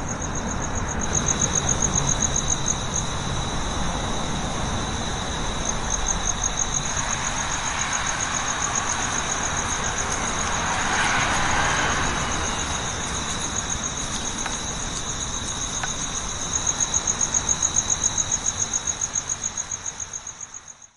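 Insects chirping in a steady, rapidly pulsing high trill over a continuous noisy background. A broader swell of noise rises and falls near the middle, and the sound fades out at the end.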